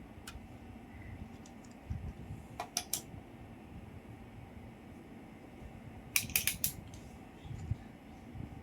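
A few sharp mechanical clicks over a low, steady rumble: a single click near the start, two or three about a third of the way in, and a quick run of four about two-thirds through.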